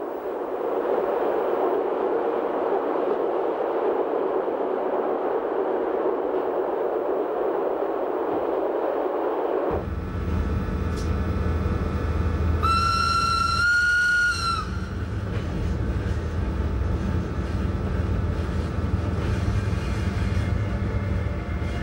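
Glacier Express train running, first as an even rushing noise, then about ten seconds in as a deeper low rumble of the wheels on the track. Soon after, the electric locomotive's horn sounds once for about two seconds, its pitch stepping up slightly near the end.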